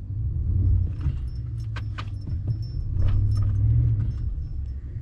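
Truck engine revving as it strains to pull out of deep mud, heard from inside the cab, swelling twice, with sharp clicks and rattles in the cab. The truck is bottomed out and not moving.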